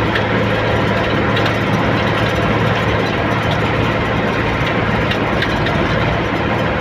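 A vehicle engine running steadily, with a constant low hum over road noise.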